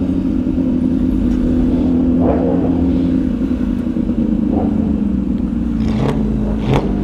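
MV Agusta Superveloce 1000's inline-four engine running at a steady cruise, its pitch sinking slowly toward the end as engine speed eases off.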